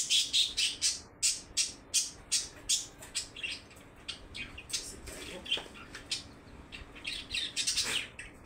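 A bird chirping in quick repeated short calls, about three a second, pausing mid-way and picking up again near the end.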